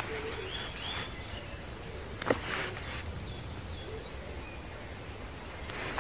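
Birds calling in short series of high, falling chirps over a faint steady background, with soft handling of a canvas repair roll and its thread card and one sharp click a little over two seconds in.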